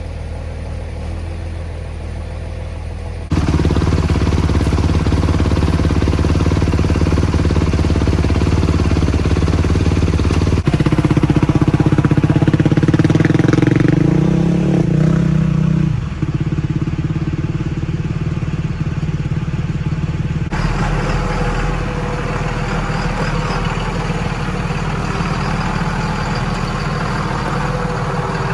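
Motor vehicle engines running in a series of abruptly cut clips. The pitch rises and falls around the middle as one engine is revved.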